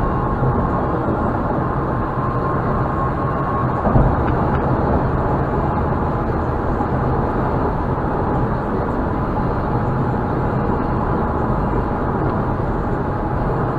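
Steady road and engine noise of a moving car, with a short knock about four seconds in.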